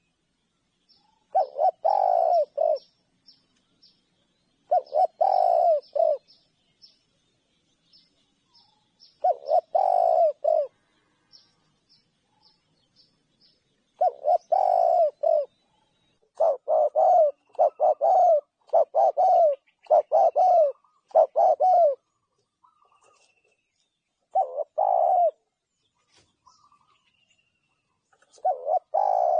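Spotted dove cooing in repeated phrases of about a second and a half, coming every few seconds and bunching closer together through the middle, then spacing out again near the end. Faint high chirps from another small bird run behind it.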